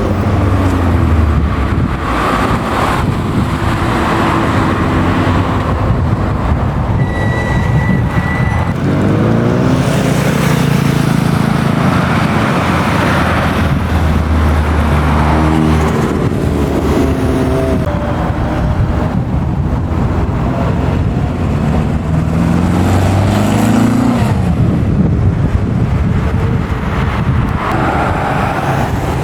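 Engines of historic racing cars running loudly, with the revs climbing several times as cars accelerate through the gears.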